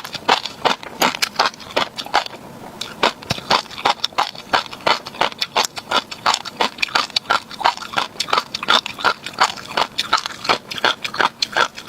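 Close-miked chewing of tobiko (flying fish roe), the small eggs popping and crunching in a rapid run of crisp clicks, several a second.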